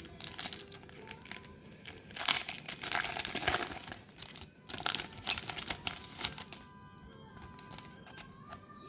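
Crinkly plastic booster pack wrapper being handled and torn open, with two loud stretches of crackling in the middle and lighter crinkles around them.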